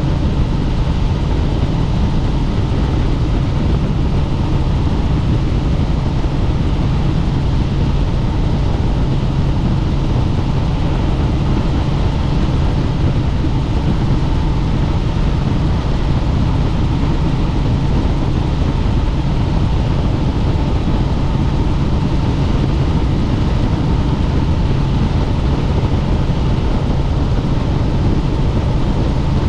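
Helicopter in steady flight: loud, unbroken rotor and engine noise, heaviest in a low drone.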